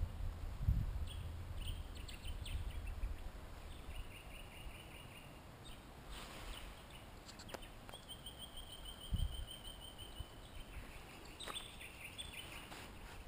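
Wild birds calling in bushland: a few short trills of quick, evenly spaced notes, the longest about eight seconds in. Low bumps on the microphone near the start and about nine seconds in.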